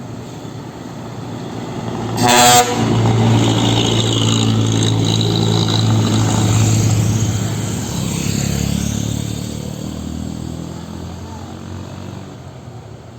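A short, loud horn blast about two seconds in, then a heavy diesel vehicle passing close by, its engine drone swelling and then slowly fading away.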